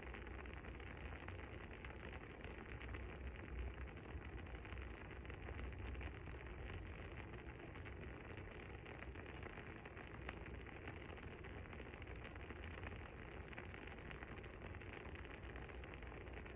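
Faint, steady soft crackling of burning wood, with small scattered pops over a low hiss.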